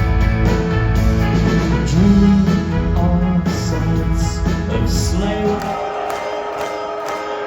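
Live pop-rock band playing an instrumental passage with bass and sustained keyboard or guitar notes. About five and a half seconds in the bass drops out, leaving a lighter, thinner band sound.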